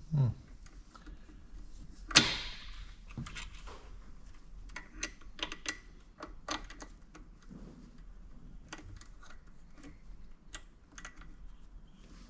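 Scattered light clicks and taps of metal parts and hand tools being handled, with a louder clank about two seconds in.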